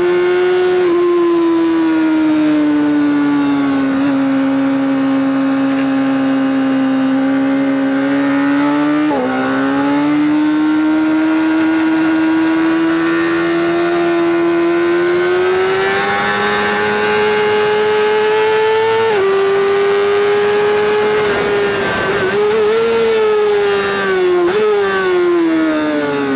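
Honda CBR600RR's inline-four engine through a LeoVince SBK titanium exhaust, running hard at high revs on a track lap. The pitch climbs steadily and drops sharply at gear changes several times, wavers briefly, then falls near the end as the bike slows.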